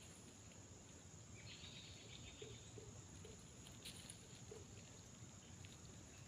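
Near silence: faint outdoor ambience with a steady high-pitched hum, and a brief faint chirping call about a second and a half in.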